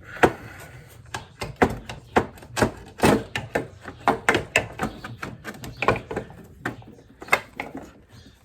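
A run of irregular clicks and knocks, about two or three a second, from tools and parts being handled during hands-on motorcycle disassembly.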